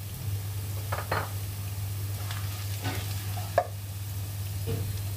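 Chopped onions sizzling in hot ghee while a spatula stirs them around the pan, with a few short scraping strokes and one sharp knock a little past halfway. A steady low hum runs underneath.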